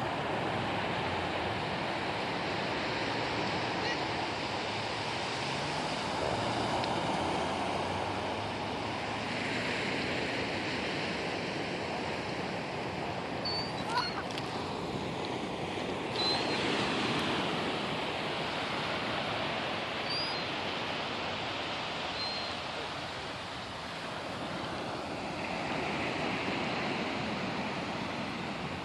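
Ocean surf washing on the shore: a steady rush that swells and eases every several seconds, with a few short, faint high chirps in the middle.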